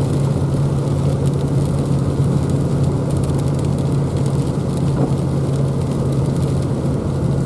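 A vehicle driving: a steady low engine drone with road noise and scattered faint clicks, starting suddenly and holding level throughout.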